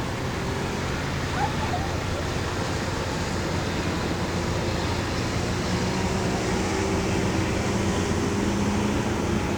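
Steady low drone of a passing tugboat's engine with an even background rush, and a brief high chirp about a second and a half in.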